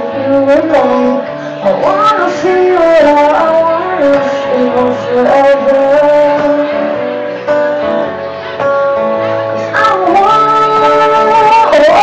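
Live music: a woman singing a held, gliding melody over instrumental accompaniment.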